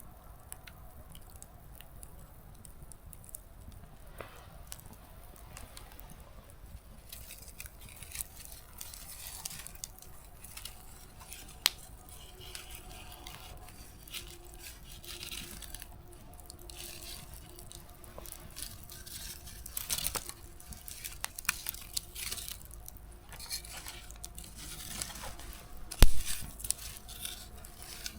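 Small wood campfire crackling, with sparse snaps that grow busier after several seconds. One sharp pop comes about twelve seconds in and a loud snap near the end.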